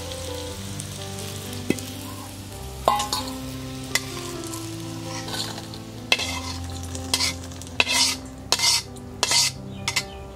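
Chopped ridge gourd peel, chillies and garlic sizzling in a metal wok while being stirred. In the second half comes a run of sharp scrapes and knocks as a metal spatula scrapes the fry out of the wok into a steel bowl.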